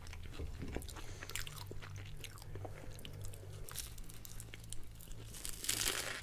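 Close-up chewing and crunching of crisp puff-pastry pizza, full of small crackly clicks, with a louder crunchy bite near the end.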